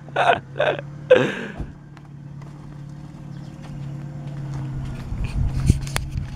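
Fiat Strada pickup's engine running steadily at idle, slowly getting louder, with a low rumble near the end. A few short shouted voice bursts in the first second and a half.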